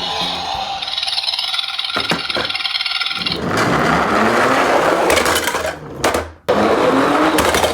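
Die-cast toy garbage trucks rolling down a slope track: a dense rattle of small wheels that starts about three and a half seconds in, with a faint whine rising in pitch as they speed up. The rattle breaks off sharply for a moment near the end.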